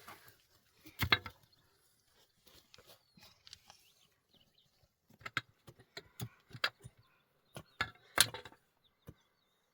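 A series of sharp, irregularly spaced knocks and clicks, with two louder ones about a second in and near the end, over quiet surroundings.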